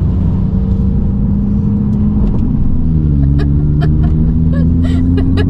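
Mini car's engine running under load while driving through deep floodwater on a road, heard inside the cabin; its pitch drops about halfway through, then slowly rises. Short sharp ticks come in near the end.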